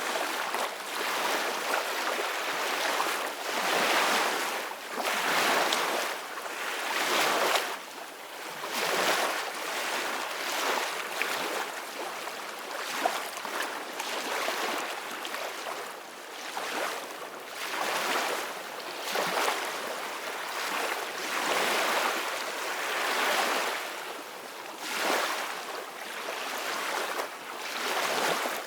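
Ocean waves breaking and washing on a shore, a rushing surge that rises and falls every two to three seconds.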